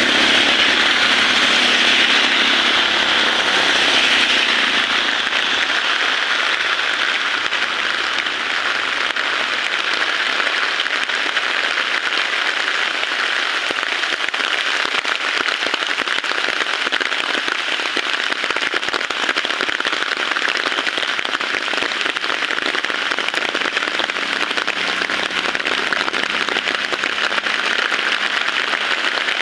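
Heavy rain falling in a steady hiss. In the first few seconds a motor engine fades away beneath it.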